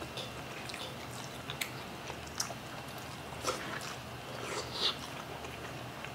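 Close-up eating sounds of two people chewing soft steamed fish and licking their fingers: quiet chewing with a few short wet smacks, the loudest near five seconds, over a steady low hum.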